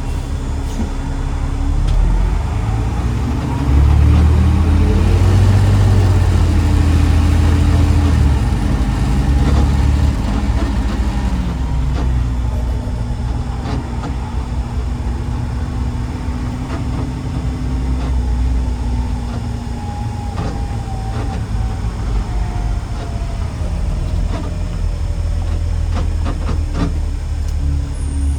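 Heavy diesel engine of a garbage truck pulling away: the engine note climbs and gets louder about four seconds in, holds, then drops back around eleven seconds in and runs steadily.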